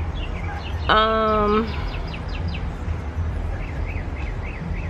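Small birds chirping in short, quickly repeated notes over a low steady rumble, with one loud held tone lasting under a second about a second in.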